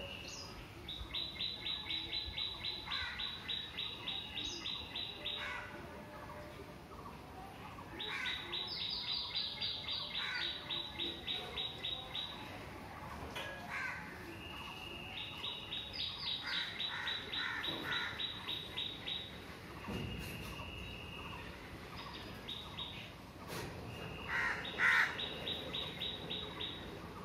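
A songbird singing: long phrases of rapid, evenly repeated high notes, each lasting a few seconds, four times over, with short single whistles in between.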